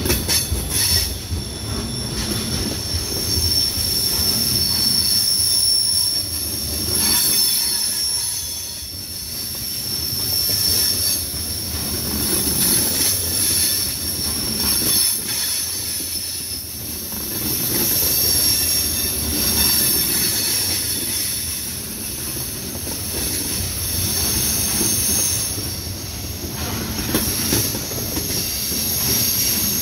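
Freight train of tank cars rolling past on a curve. Its steel wheels squeal against the rails in high steady tones over the low rumble of the cars, and the sound swells and eases every few seconds.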